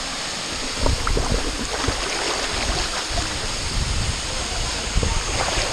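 Rushing waterfall water, with irregular low thumps and buffeting on the microphone starting about a second in.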